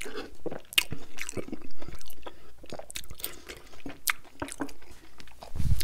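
Close-miked chewing of a mouthful of loaded tater tots: wet mouth clicks and smacks, with the fork clicking against the food and plate about four seconds in. A low thump comes just before the end.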